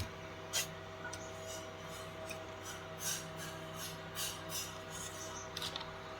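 Light scratching, rubbing and small clicks of parts or tools being handled, over a steady electrical hum.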